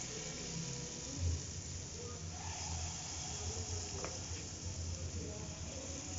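Steady hissing of hot oil sizzling as palm-fruit pitha fries, with a low hum under it from about a second in.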